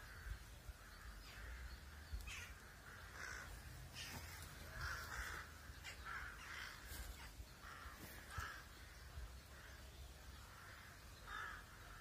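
Faint bird calls, short calls repeating every second or so, over a low rumble.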